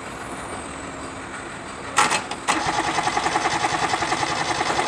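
Starter cranking the three-cylinder Kubota D650 diesel of a B6001 tractor: a sharp burst about two seconds in, then rapid, even cranking pulses with a starter whine. The tractor is hard-starting.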